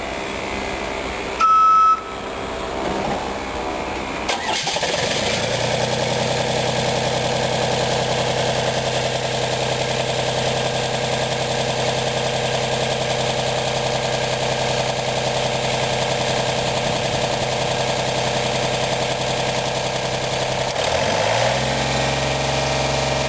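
A short, loud electronic beep, then the Deutz diesel engine of a Haulotte HA16PX boom lift cranks and starts about four seconds in, settling to a steady idle. Near the end its speed rises a little and holds.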